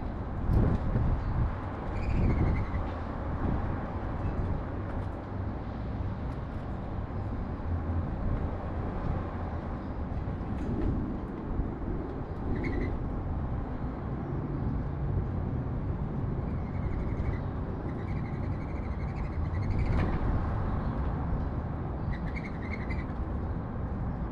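Steady rumble of city traffic, with small birds chirping briefly a few times over it.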